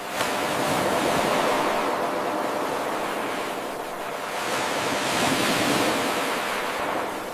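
Ocean surf washing in and ebbing in slow swells of rushing hiss, from an 8-second wave recording looped end to end. An abrupt step up in level just after the start marks the loop's seam.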